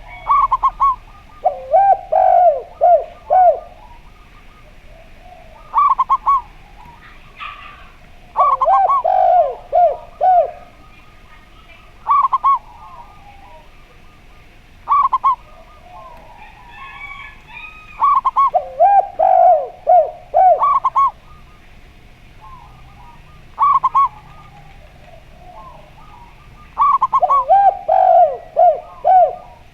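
Doves cooing: zebra doves (perkutut) and a derkuku dove call back and forth. Each phrase is a quick run of staccato cooing notes, higher notes leading into a lower rapid trill, repeated every few seconds. Faint chirping from small birds runs underneath.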